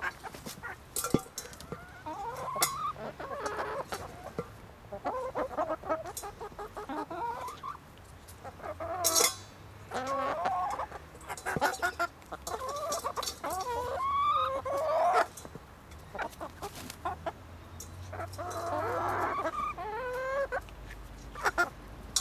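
Backyard hens clucking and calling while being fed, in short repeated calls with a few louder squawks, mixed with scattered sharp clicks.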